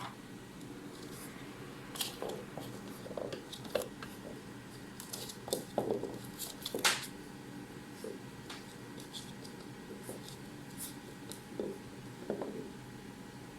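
Bichon Havanese puppy chewing and playing with a carrot: irregular clicks and short crunches, the sharpest about seven seconds in, over a faint steady hum.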